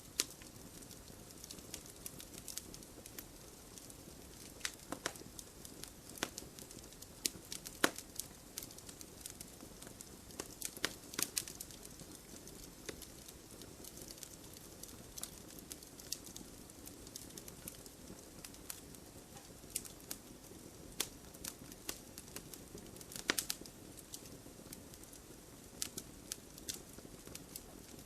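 Fire in an open fireplace crackling steadily: irregular sharp pops and snaps over a low, even rush of the flames, with a few louder snaps among them.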